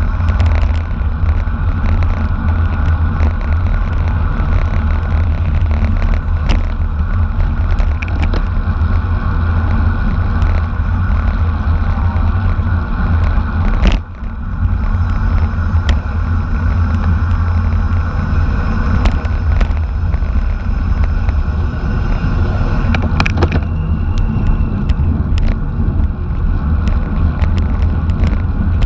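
Steady loud wind rush and low rumble on the microphone of a camera riding along in a bicycle race, with scattered sharp clicks and a brief drop in the rumble about halfway through.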